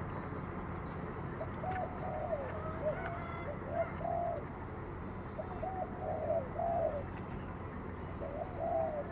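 Spotted dove cooing: about four short phrases of soft, repeated coos, a couple of seconds apart.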